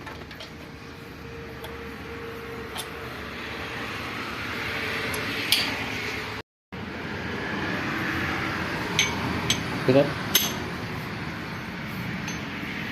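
Metal tractor gearbox parts clinking and tapping now and then as they are handled and fitted, over a steady rushing background noise.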